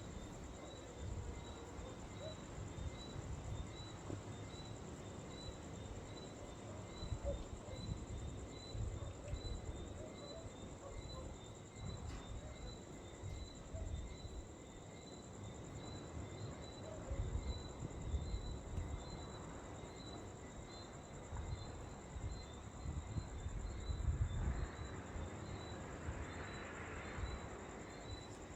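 Insects calling outdoors: a steady high buzz, with a chirp repeating a little more than once a second. Under it runs an uneven low rumble of wind on the microphone.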